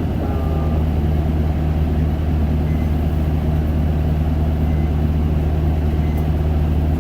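Isuzu Erga bus's four-cylinder diesel engine running with a steady, even hum.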